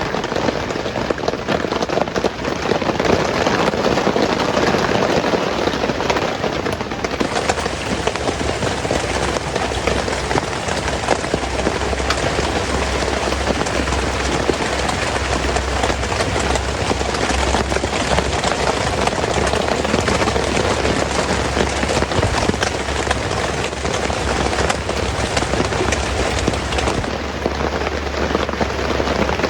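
Heavy rain falling steadily, a dense even hiss of drops with a low rumble beneath.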